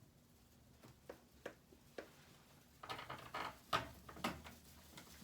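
A few separate sharp clicks, then a busier run of clicks and rattles about three seconds in: small screws and plastic panel parts being picked up and handled.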